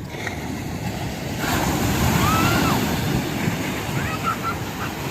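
Sea surf: a wave breaks and washes up the shore, swelling to its loudest about two seconds in, with wind buffeting the microphone.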